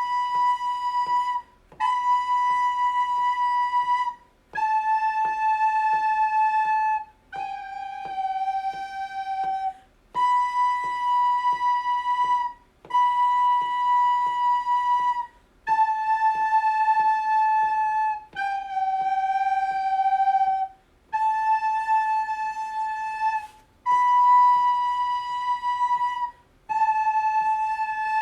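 Soprano recorder playing a slow counter melody in whole notes: B, B, A, G twice over, then A, B, A, G. Each note is held about two and a half seconds, with a short breath gap between notes.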